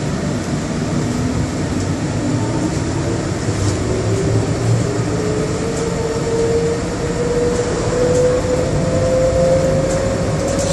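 Bombardier Innovia APM100 people-mover car running on its rubber tyres, heard from inside the cabin, with a steady low rumble under a traction-motor whine that rises smoothly in pitch as the train picks up speed.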